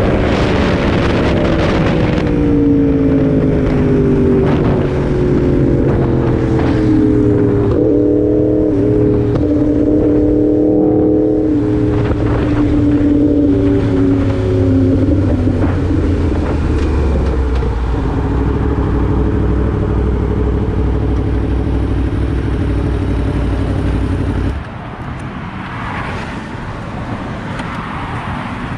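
Motorcycle engine, fitted with an exhaust the officer calls illegal, winding down as the bike slows to pull over, its pitch falling over about fifteen seconds. It then runs steadily until it cuts off suddenly about 25 seconds in, leaving a quieter road background.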